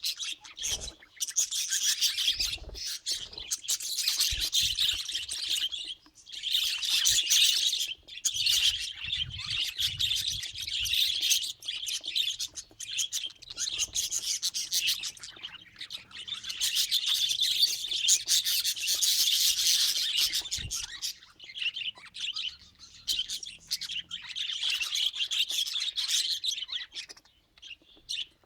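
Budgerigars chattering and chirping in bursts of a few seconds, with short pauses between.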